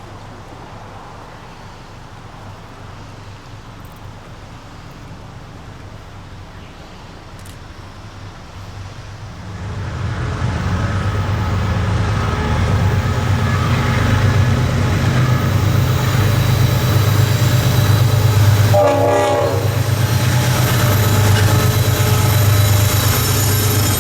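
Diesel locomotive of a freight train running, its low engine drone growing sharply louder about ten seconds in and then holding steady, with a brief higher-pitched sound a little before the end.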